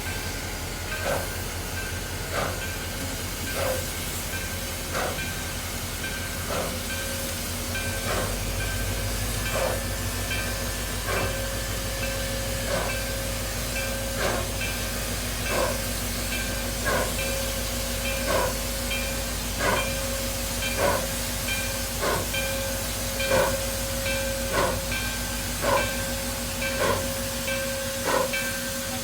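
Ex-Chicago, Burlington & Quincy 2-8-2 steam locomotive No. 4960 pulling a train, its exhaust chuffs coming evenly and quickening from about one every 1.3 seconds to nearly one a second as the train gathers speed, over a steady hiss of steam.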